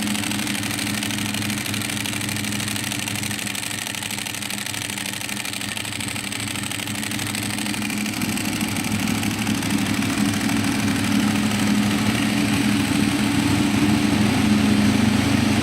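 Ducati 1098R's V-twin engine idling steadily at a fairly high idle of about 1550 rpm, growing somewhat louder in the second half.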